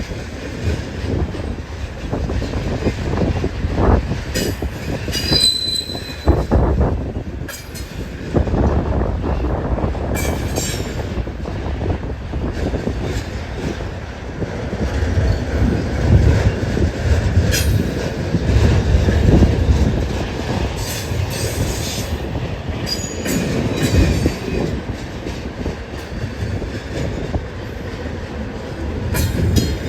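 BNSF train passing: steady rumble of the cars rolling on the rails, with a brief high wheel squeal about five seconds in. Wind is on the microphone.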